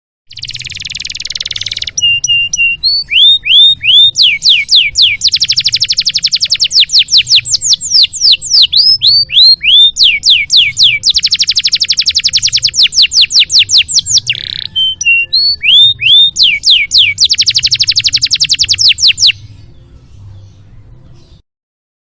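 Domestic canary singing a long, varied song of fast rolling trills, downward-sweeping whistled notes and short repeated phrases. It breaks off shortly before the end.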